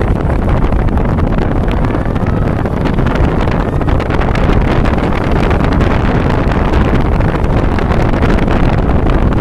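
Ocean waves rushing steadily, with heavy wind noise on the microphone.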